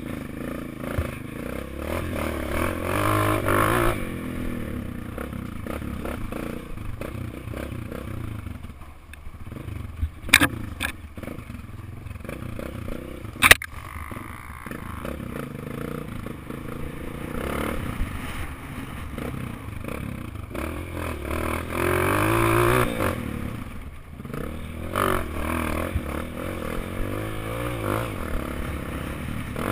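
Honda CRF230 dirt bike's single-cylinder four-stroke engine revving up and easing off as it is ridden, with two sharp knocks about a third and nearly halfway through.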